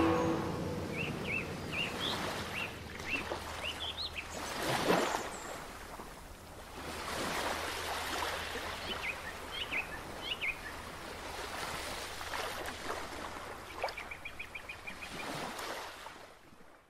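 Small birds chirping in short rising notes over a steady rushing background noise that swells twice around the middle. A quick run of chirps comes near the end.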